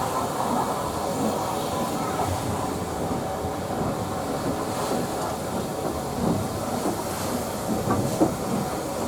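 Steam-hauled heritage train running along the track: a steady rumble with a few clicks of wheels over rail joints in the second half.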